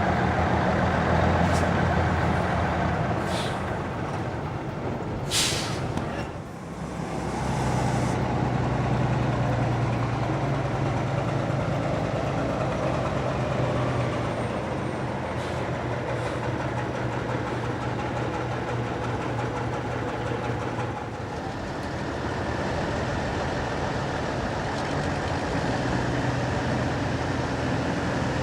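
Antique trucks' engines running steadily with a deep, even hum. There is a short hiss of air about five seconds in.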